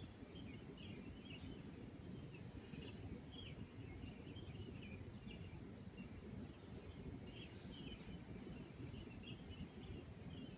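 Faint background noise: a low steady rumble with many short, high chirps of small birds scattered through it.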